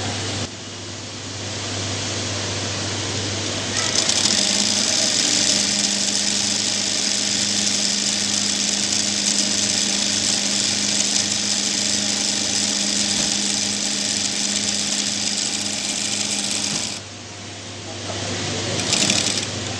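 Sewing machine fitted with a piping folder stitching a fabric strip into piping: a low motor hum at first, then the machine running fast and steady for about thirteen seconds before stopping suddenly, with a short burst of stitching near the end.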